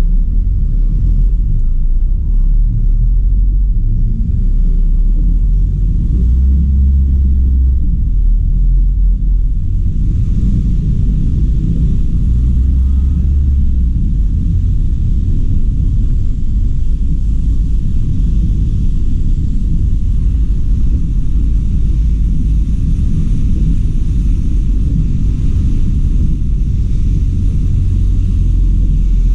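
Steady low rumble of a car driving on city streets, its engine and tyres heard together. About ten seconds in, a light hiss joins the rumble.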